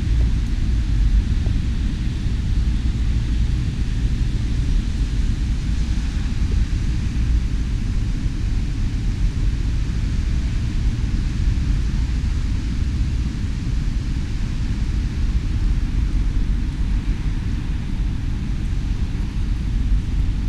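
Steady low rumble of wind buffeting the microphone, with a faint hiss of rain above it.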